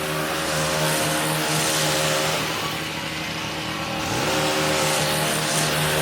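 An engine running steadily nearby, easing off slightly around the middle and picking back up with a short rise in pitch about four seconds in.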